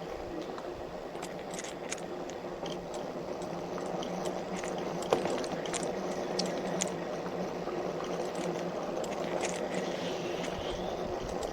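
E-bike tyres rolling downhill on a dirt road: a steady rumble with a faint low hum and scattered small clicks and pops from stones, one sharper click about five seconds in.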